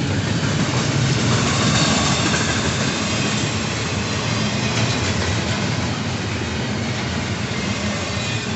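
Intermodal freight train's cars rolling past slowly, a steady rumble and rattle of steel wheels on rail.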